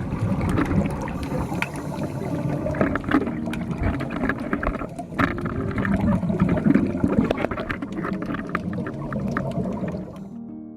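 Water sloshing and gurgling, dense with small clicks and knocks, fading out about ten seconds in.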